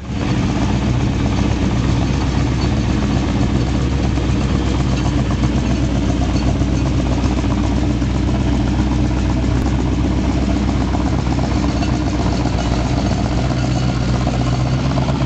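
A lowered 1950s Cadillac custom's V8 engine running at a steady idle as the car creeps along at walking pace.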